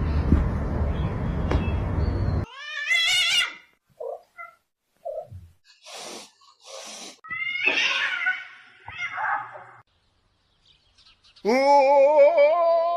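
A steady noisy rumble cuts off suddenly about two and a half seconds in. Then a cat meows several times, and near the end gives a long, wavering yowl that rises in pitch at its start.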